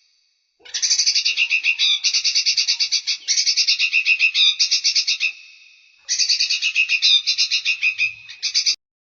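Recorded songbird giving rapid chattering trills of about ten high notes a second, in two long runs: the first about five seconds, the second about three seconds, which breaks off abruptly. This is a masteran recording, played to teach song to cage birds.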